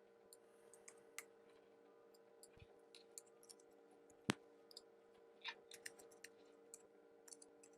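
Faint, irregular clicks of a computer keyboard being typed on, with one sharper click a little past four seconds in, over a faint steady hum.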